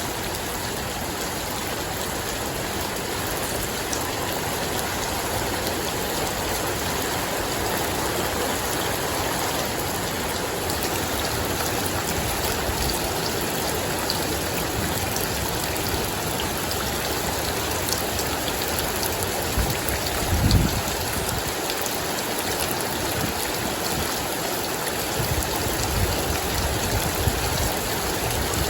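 Steady rain falling, a continuous patter and hiss. A brief low rumble about twenty seconds in, and weaker ones near the end, are wind gusting on the microphone.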